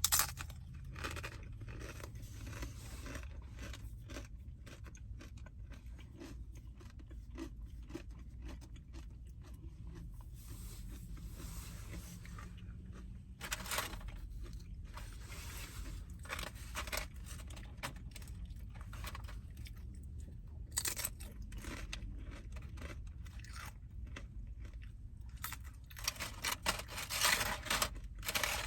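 Close-up chewing and crunching of food, a run of small crackling crunches with louder clusters around the middle and near the end.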